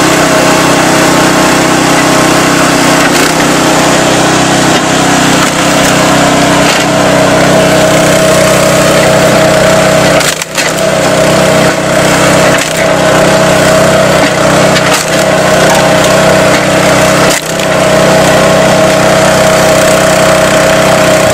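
Small engine of a homemade log splitter running steadily while logs are split, with wood cracking and splitting. The engine sound dips briefly a few times, each dip marked by a sharp crack.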